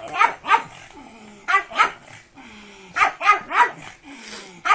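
A pug barking in three quick bursts of two or three sharp barks each, about a second and a half apart.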